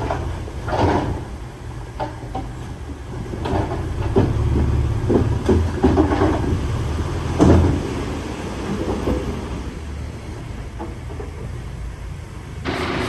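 Heavy earthmoving machinery at work: a diesel engine runs low and steady under irregular metallic clanks and scrapes. Near the end a louder engine sound comes in.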